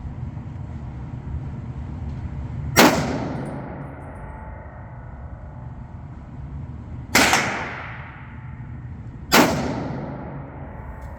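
Three shots from a Remington 742 Woodsmaster semi-automatic rifle in .30-06. The first comes about three seconds in, the other two about two seconds apart near the end, and each shot rings off into a short echo.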